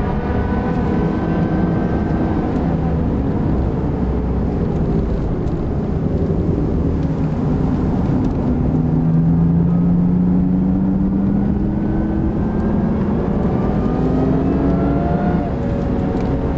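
Supercharged Lexus IS350's 3.5-litre V6 heard from inside the cabin at track speed, over road and wind noise. The engine note climbs under acceleration several times, dropping back between pulls.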